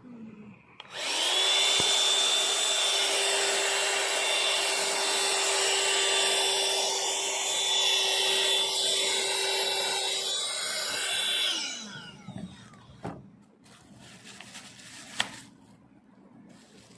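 Small cordless handheld vacuum cleaner switched on about a second in, running with a steady high whine and rush of air for about ten seconds, then switched off and winding down. A few light clicks and knocks follow.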